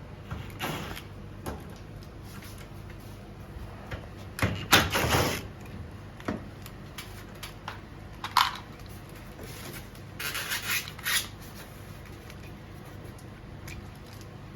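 Scattered knocks, clicks and clatter of objects being handled, loudest a little under five seconds in, over a low steady hum.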